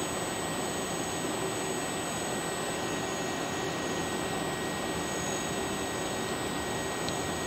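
DMS 505i CNC router running: a steady machine hiss and hum with several constant high whines, the level unchanging throughout.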